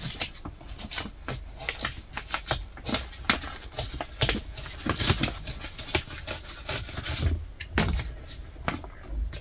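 Irregular clicking and tapping, a few sharp clicks a second, from hand work on the window framing.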